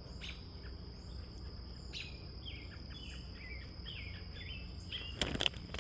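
Small birds chirping in quick short notes over a steady high-pitched insect drone, with a brief rustle near the end.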